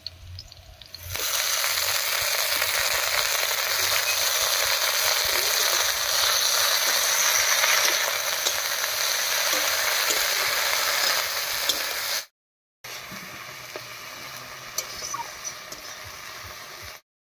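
Soaked dried shrimp hitting hot mustard oil with onion, green chillies and garlic in a wok: loud, steady sizzling that starts about a second in, with a metal spatula stirring and scraping. After a short break the frying sizzles on more quietly.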